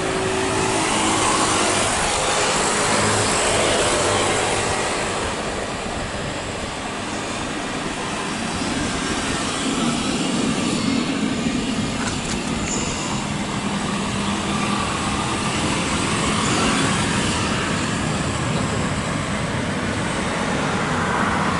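Jet airliner engines running, a sustained broad rushing noise that swells and fades several times.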